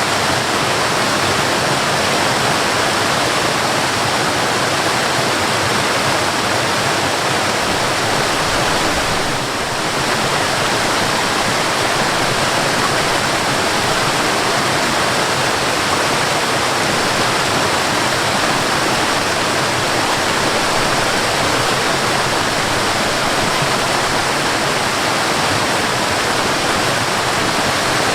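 Waterfall: water falling and rushing in a steady, even noise, with a brief slight dip in level about nine seconds in.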